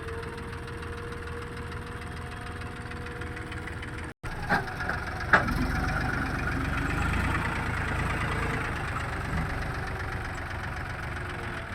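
Diesel engine of heavy farm or construction machinery running steadily. About four seconds in the sound cuts out for an instant, then come two sharp knocks and the engine runs a little louder.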